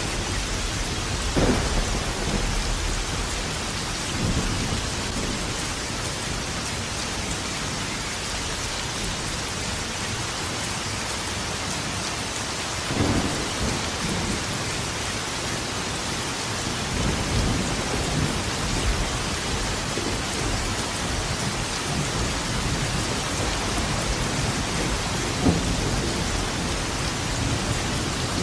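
Thunderstorm: steady rain falling, with thunder rumbling several times over it, sharper claps about a second and a half in, about 13 seconds in and near the end.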